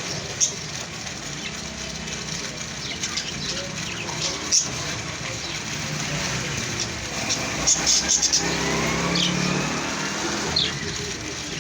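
Steady traffic-like background with a motor vehicle's engine, its pitch rising for about two seconds past the middle. Short high chirps come and go throughout.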